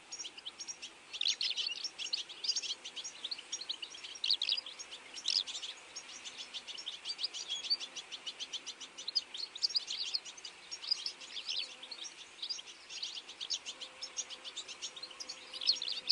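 Birds chirping: many short, high-pitched calls in quick, overlapping succession, without a break.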